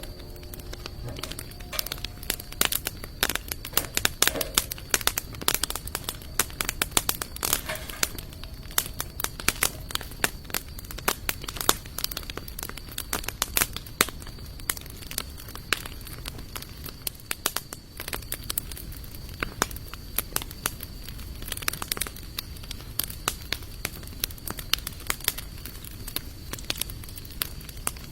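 Wood campfire of sawtooth oak and mixed hardwood logs crackling, with many sharp irregular pops and snaps over a low steady background.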